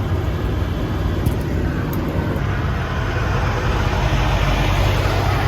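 Freeway traffic: a steady low rumble, with a passing vehicle's tyre and engine noise growing louder in the second half.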